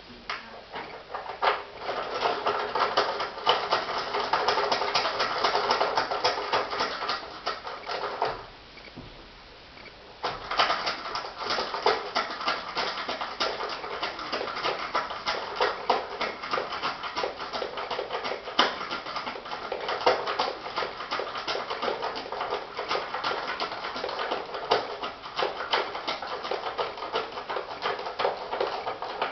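Samsung washing machine running, a noisy rush full of fine clicks and rattles; it stops for about two seconds around eight seconds in, then starts again.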